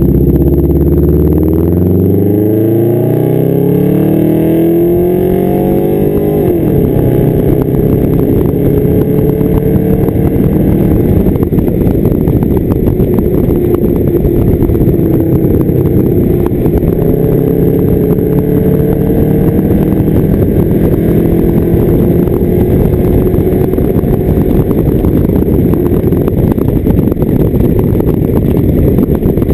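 A 1992 Subaru Legacy's flat-four engine, running loud through a straight-pipe exhaust. Its pitch rises steadily for about six seconds, drops sharply, then runs on at a steadier pitch that creeps slowly upward.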